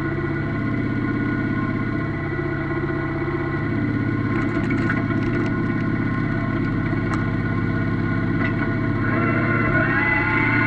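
Yanmar F16D mini-tractor's diesel engine running steadily, with a few light rattles around the middle. Near the end its pitch rises as the engine speeds up.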